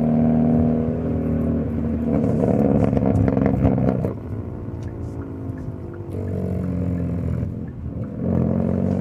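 Hyundai Elantra N's turbocharged 2.0-litre four-cylinder engine and exhaust pulling steadily under way in N mode. The note turns rougher and louder a couple of seconds in, then eases off just after four seconds.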